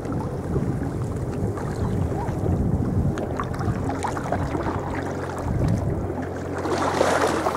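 Water sloshing and splashing around a sea kayak as it is paddled, with wind buffeting the microphone. The sound swells briefly near the end.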